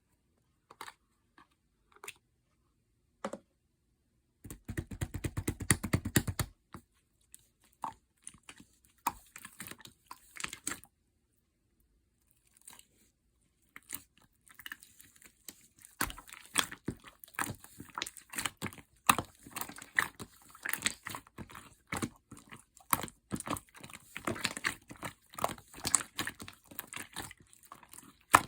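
Slime being squeezed and kneaded by hand, giving runs of crackling, popping clicks. A few scattered clicks come first, there is a pause in the middle, and the clicking grows dense and steady in the second half.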